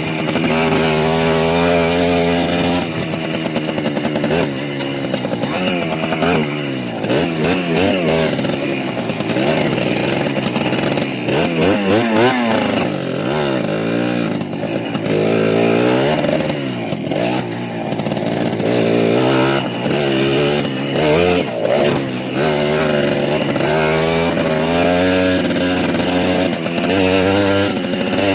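Small motorbike engine running under way, buzzy and loud. Its pitch holds steady at first, then climbs and drops again and again through the middle as the throttle is opened and closed, and settles steady again near the end.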